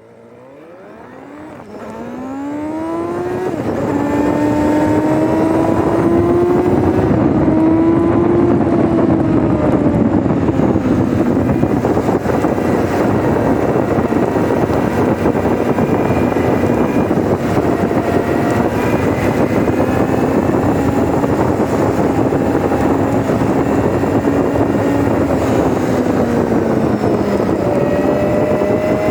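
Kawasaki Z900RS inline-four engine heard through an SP Tadao POWERBOX full 4-into-1 titanium exhaust, with the machine under way. The sound fades in over the first few seconds as the revs climb, rises and eases again around eight to ten seconds in, then holds a fairly steady engine speed. It is played at double speed, so the pitch sounds higher than it really is.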